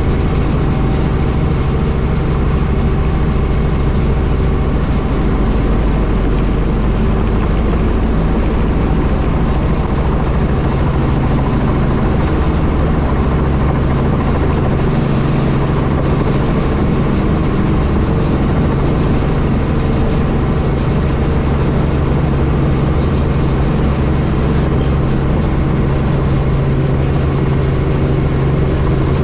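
Helicopter in flight: the steady, unbroken drone of its engine and rotor, with a constant low hum.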